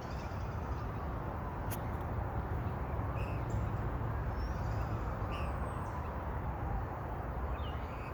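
A small songbird giving a few short chirps, spaced a couple of seconds apart, over a steady low outdoor rumble; a single sharp click sounds near the start.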